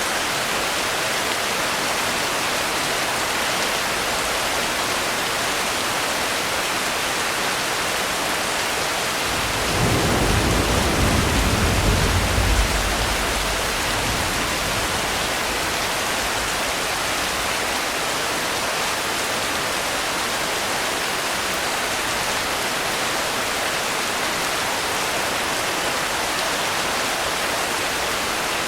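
Steady heavy rain, with a low roll of thunder about ten seconds in that swells and fades over about four seconds.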